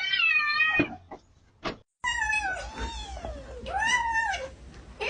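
Cat meowing: a high wavering call that breaks off a little under a second in, a few soft clicks and a short pause, then a long drawn-out meow that slides down and bends up again.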